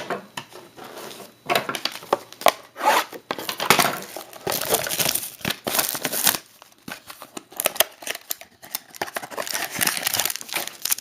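Trading cards and their plastic and paper packaging being handled: irregular rustling, crinkling and sliding as the cards are pulled out and flipped through one after another.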